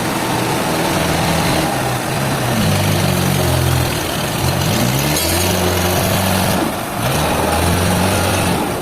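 A heavy machine's engine running loud and steady, its speed rising and falling several times as it is revved up and let back down.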